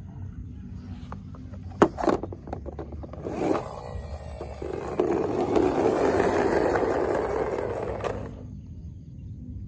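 Diecast toy vehicle being handled: two sharp clicks, then a rough scraping, rolling noise lasting about five seconds that cuts off suddenly.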